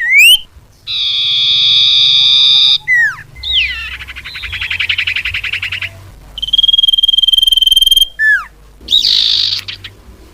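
Common iora (cipoh) lure calls: a quick sweeping note, then a long buzzy trill, a fast rattling trill, a long steady whistle, and a couple of short sweeping notes near the end.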